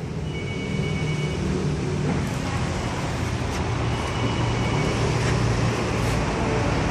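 Steady background rumble like street traffic, with a faint high whine at times.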